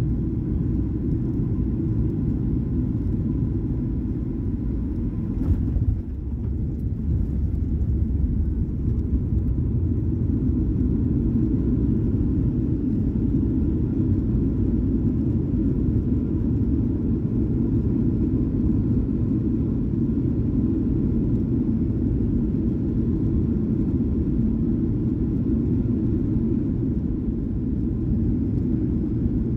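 Cabin noise of a Boeing 737-800 landing: a steady low rumble, with one brief knock about five and a half seconds in.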